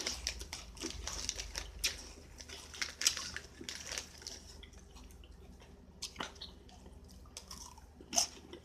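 Close-up chewing of crunchy Flaming Hot Funyuns onion rings: irregular crunches and wet mouth clicks, a little louder near the start and again about eight seconds in.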